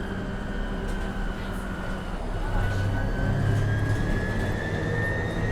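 Onboard sound of a 2015 MAN Lion's City NL253 Hybrid city bus under way. A steady whine from the hybrid drive dips slightly, then rises in pitch from about halfway through as the bus speeds up, over a low drivetrain hum that grows louder at the same time.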